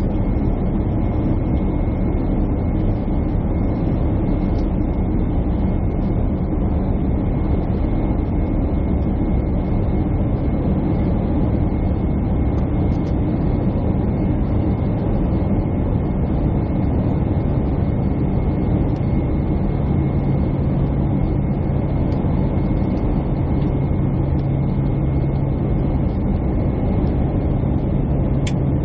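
Jet airliner cabin noise heard from a window seat: the steady rush of engines and airflow, with a thin high whine throughout and a low hum that grows stronger about two-thirds of the way in.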